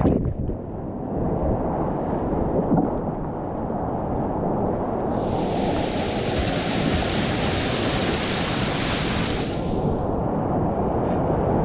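Rushing floodwater of a steep whitewater creek, a steady muffled roar. About five seconds in, a brighter hiss of splashing water joins for around five seconds and then fades.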